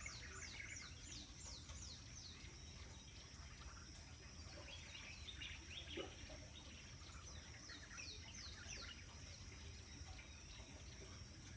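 Faint bird calls: runs of quick, high whistled notes, each falling in pitch, one run at the start and another about seven seconds in, over a steady high hiss.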